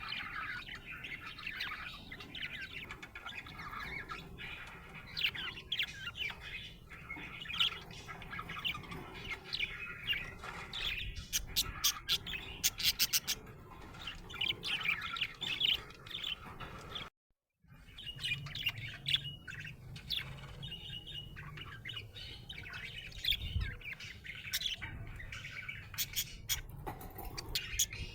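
Budgerigar chirping and warbling in a continuous chatter, the contented sound of a happy budgie, with a run of sharp clicks about twelve seconds in. The sound cuts out completely for a moment about seventeen seconds in.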